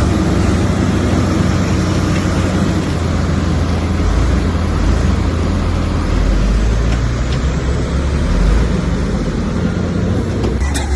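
Komatsu bulldozer's diesel engine running steadily while the machine works, a loud low engine note over mechanical noise, its pitch shifting slightly about halfway through.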